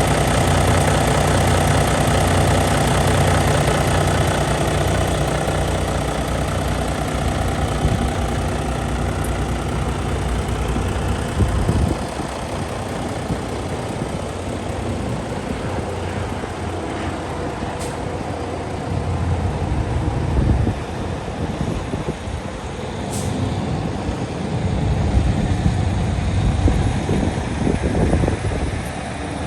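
Kenworth T880 semi truck's diesel engine idling, a steady low hum that grows less even after about twelve seconds, with gusty low rumbles later on.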